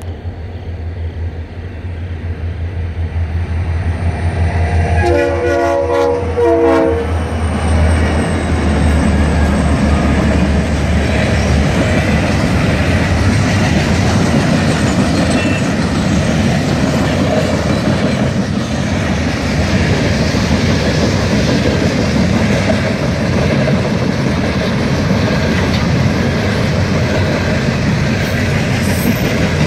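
Freight train approaching and passing a grade crossing. The rumble builds over the first few seconds, and the locomotive's air horn sounds one blast of about two seconds some five seconds in. After that the freight cars roll by with a steady rumble and wheel clatter.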